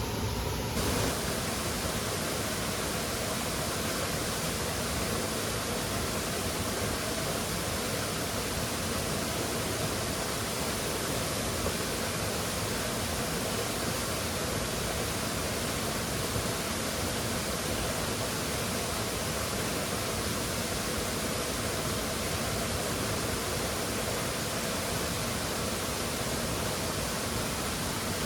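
Waterfall: the steady, even rush of falling water, spread from low to high pitch.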